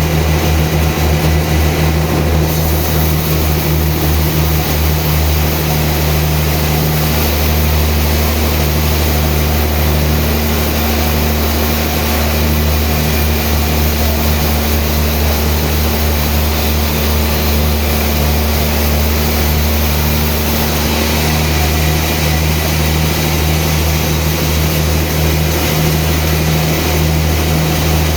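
Sawmill machinery running steadily: a heavy low engine drone under a constant hiss. A faint higher hum joins from about seven seconds in until about three-quarters of the way through.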